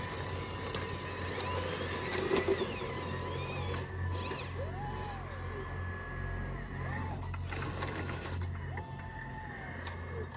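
Radio-controlled heavy-equipment models working: a steady low hum with several short whines that rise and fall in pitch.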